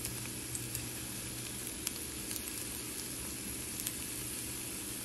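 Battered plantain slices sizzling in shallow frying oil in a pan: a steady hiss with a few small pops scattered through it.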